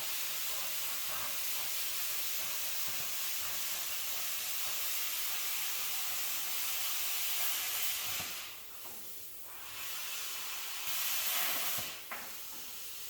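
Steady, loud hiss of compressed air that drops away briefly about two thirds of the way through, then returns and fades near the end.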